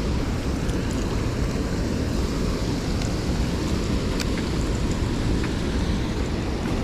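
Steady rushing noise of fast water pouring out of a spillway chute, mixed with wind buffeting the microphone.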